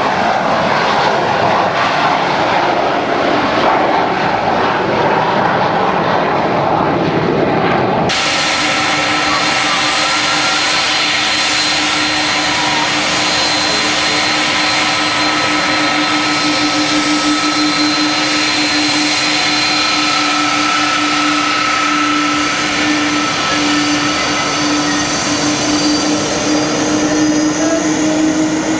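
Fixed-wing aircraft engines running loud: a dense, even noise for about the first eight seconds, then an abrupt change to a steady engine whine of several held tones over the noise, the lowest tone rising slightly near the end.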